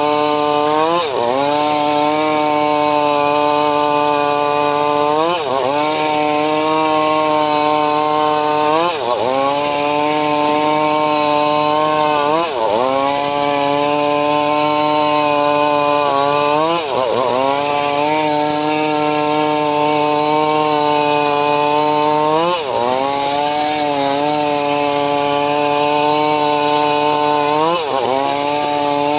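Homemade engine-driven saw cutting mahogany wood. Its steady engine hum dips in pitch and recovers every four seconds or so as the blade takes the load of each cut.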